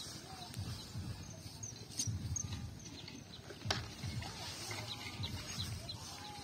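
Birds chirping and calling in short, scattered notes, with a sharp click a little past halfway and an irregular low rumble underneath.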